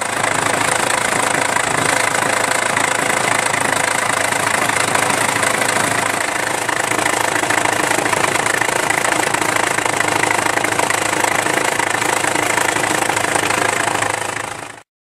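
Isuzu Rodeo engine running with a loud flapping and tapping from its loose timing belt: the hydraulic timing-belt tensioner has failed, letting the belt flap around. The sound cuts off suddenly near the end.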